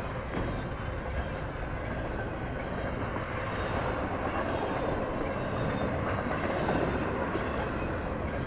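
Double-stack container train's loaded well cars rolling past close by: a steady rumble and rattle of steel wheels on the rails, with a few faint clicks.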